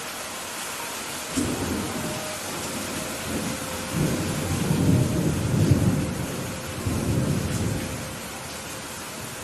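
Steady rain hissing, with a long roll of thunder that comes in about a second and a half in, swells in the middle and dies away near the end.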